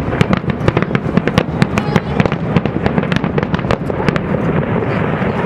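Fireworks display: a dense run of sharp bangs and crackles, several a second, over a continuous low rumble of bursts.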